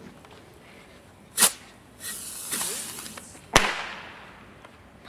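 Bottle rockets, three tied together, going off. There is a short loud hissing burst about a second and a half in, a longer hiss from about two seconds that fades away, and a sharp crack about three and a half seconds in.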